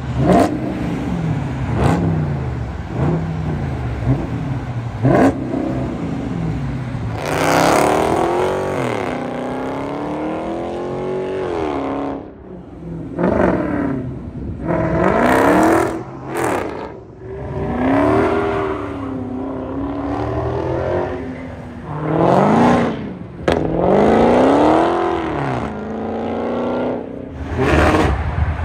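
Mopar car's engine revved hard again and again, its pitch climbing and dropping several times, with a few sharp cracks in between.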